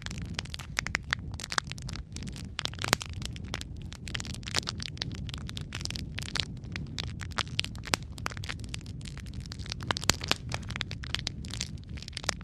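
Wood fire crackling and popping: dense, irregular sharp snaps of varying loudness over a steady low rumble of flames.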